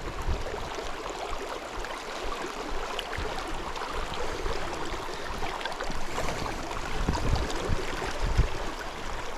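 River water rushing steadily past a drifting inflatable raft, an even hiss with a few soft low bumps between about seven and eight and a half seconds in.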